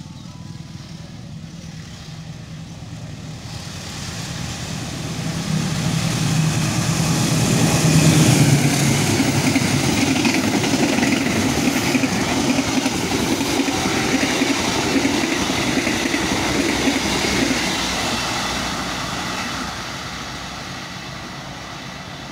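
An Argo Cheribon passenger train hauled by a diesel-electric locomotive passes close by at speed. The locomotive's engine drone builds as it approaches and is loudest about eight seconds in. The broad rush of the carriages' wheels on the rails follows, then fades near the end.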